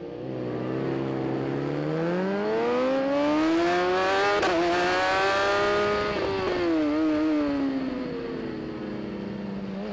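A racing motorcycle's engine out on the track, its note climbing steadily under acceleration for about four seconds. There is a brief gear-change break about four and a half seconds in, then the note falls away as the bike slows.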